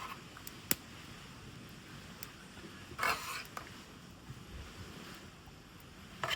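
A cooking utensil scraping against a pan in a few short strokes, with a sharp click about a second in.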